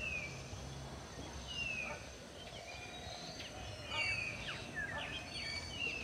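Wild birds calling: short downward-sliding whistles repeated every second or two, with a flurry of quick chirps about four seconds in, over a faint outdoor background hiss.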